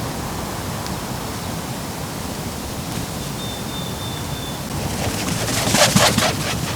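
Woodland ambience: a steady rushing hiss, with a thin, high whistled bird note held for about a second midway, and a brief crackling rustle near the end.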